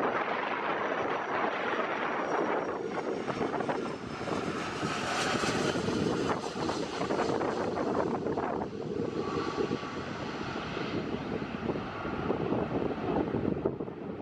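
Jet engines of a landing Boeing 757-200 airliner, a steady loud roar with faint high whining tones, dipping slightly about four seconds in.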